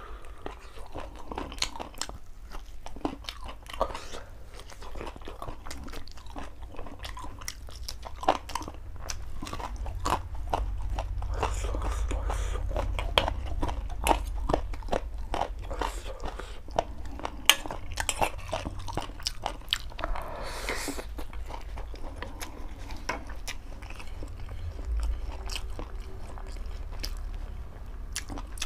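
Close-miked eating: chewing with frequent sharp crunchy bites and mouth sounds, from biting into a chicken leg piece and eating chicken noodles.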